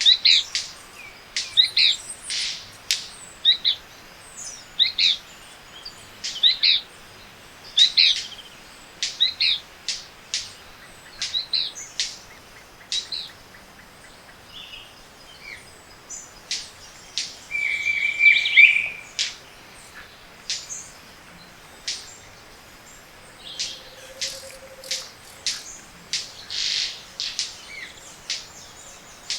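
Tropical montane forest birds singing and calling in a morning chorus: a run of short repeated calls, many sharp clicks, and a brief held note about two-thirds of the way through.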